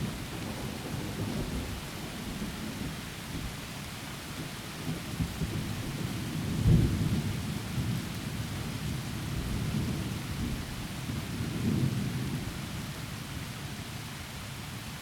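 Rolling thunder under steady heavy rain. The thunder rumbles in low swells, loudest about seven seconds in, swells again near twelve seconds, then dies away toward the end while the rain hiss continues.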